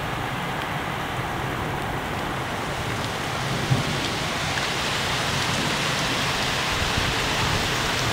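Rain pouring down in a steady hiss, growing a little louder after about three seconds.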